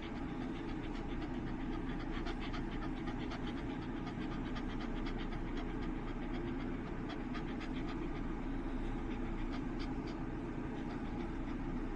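Shiba Inu panting in quick, short breaths, over a steady low hum.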